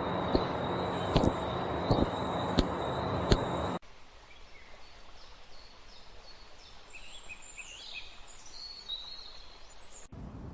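Outdoor animal sounds in two clips: first a noisy stretch with a sharp, very high chirp repeating about every 0.7 s over a steady high tone, then, after a sudden cut about four seconds in, faint birdsong of scattered high chirps.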